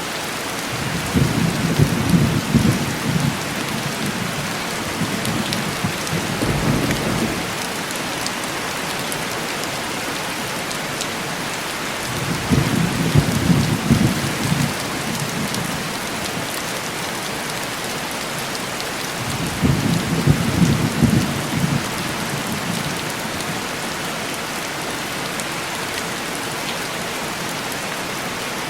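Heavy rain falling steadily on window glass, with low rolls of distant thunder rumbling up several times, the longest about a second in, near the middle and about two-thirds through.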